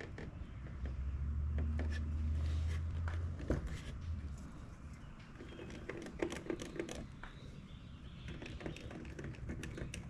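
Scattered light clicks and knocks of parts and tools being handled at a car door, with a low rumble during the first few seconds.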